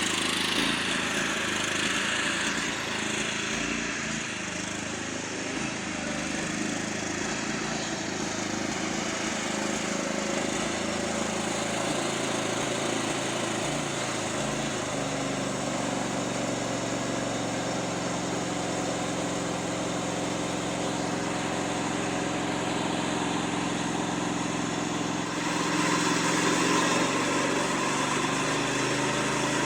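Riding lawn mower's small engine running steadily. About halfway through its note settles into an even, steady tone, and near the end it runs a little louder.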